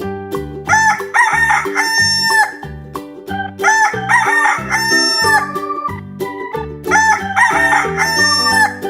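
Rooster crowing three times, each cock-a-doodle-doo about a second and a half long and evenly spaced, over a steady backing tune.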